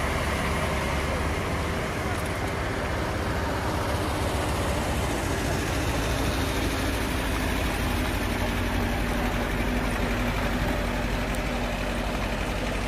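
Steady engine and road noise of a moving car, as a dashcam picks it up, with a low hum. There are no impacts.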